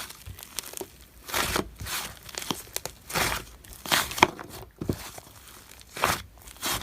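Hands kneading and pressing slime, giving irregular crackly, crinkly squishes.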